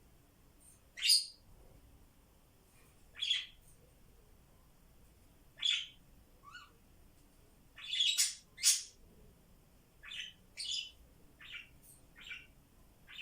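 Pet budgies (budgerigars) making short chirping calls, about a dozen scattered irregularly, with a quick run of several together around the middle.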